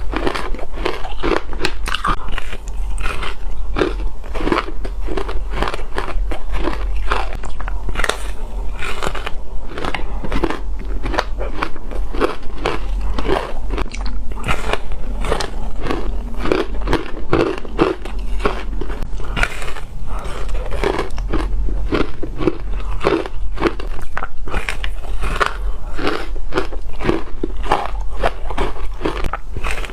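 Close-up crunching of ice being bitten, one sharp crunch after another several times a second without a break, over a steady low hum.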